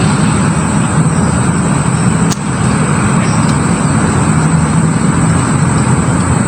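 Steady, loud low rumble of a running motor, with a single sharp click a little over two seconds in.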